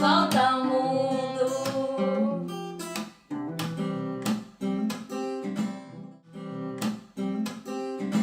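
Acoustic guitar music, plucked and strummed in repeated chords, with a voice holding a sung note over the first two seconds or so.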